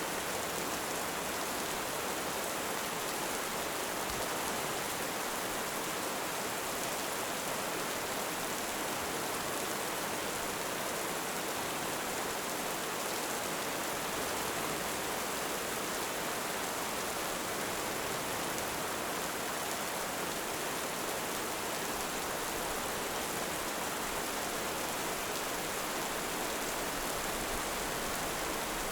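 Heavy rain falling steadily, an even hiss with no thunder and no rise and fall.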